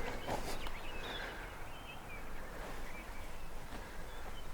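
Quiet outdoor ambience with a few short, high bird chirps scattered through it.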